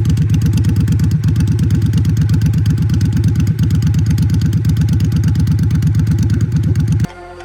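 Triumph Bobber's parallel-twin engine running steadily through open drag exhaust pipes, a fast, even, low exhaust beat. It cuts off suddenly near the end, and music comes in.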